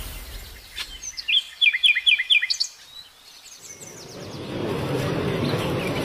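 A bird sings a short phrase of about five quick, repeated chirps, each sweeping downward. From about four seconds in, the steady din of a busy indoor hall rises and holds.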